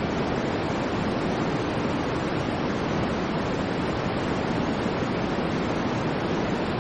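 Steady white noise: a constant, even hiss with no swells or breaks, fuller in the low and middle range than in the treble.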